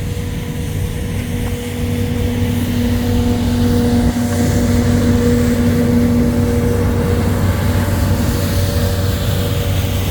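A steady engine hum with a droning tone. It grows louder over the first two seconds, then holds.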